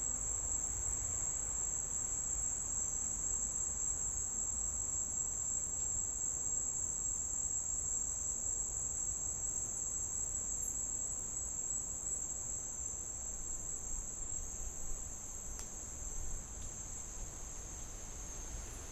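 Insects trilling in a steady, high-pitched chorus, with a faint low rumble underneath.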